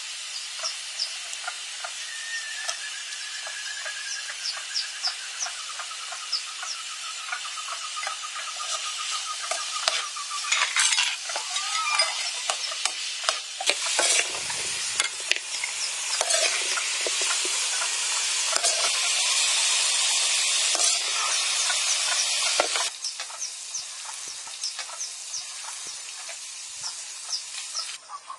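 Sweet and sour pork ribs stir-frying in a wok, a loud, dense sizzle with the scrape and clink of the spatula. It builds about ten seconds in and cuts off suddenly some thirteen seconds later, leaving quieter ambience with short high chirps.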